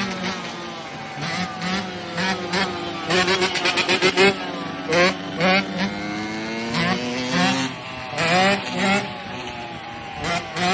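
Yamaha YZ125 two-stroke dirt bike engine running, blipped repeatedly in short throttle bursts that rise in pitch over a steadier engine note, with a quick run of blips about three to four seconds in.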